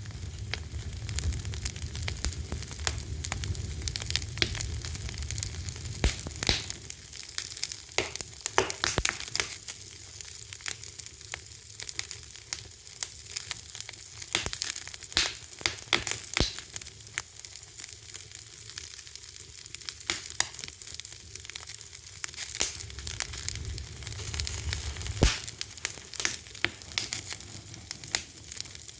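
Wood fire crackling: a steady hiss with frequent sharp pops and snaps, and a low rumble of the flames at times.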